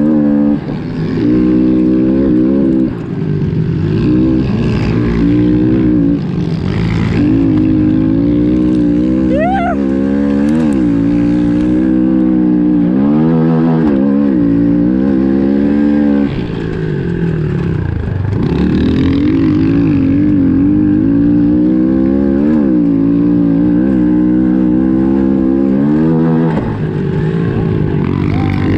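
Honda CRF110F pit bike's single-cylinder four-stroke engine at race pace, revving up and down repeatedly, with brief throttle cuts several times.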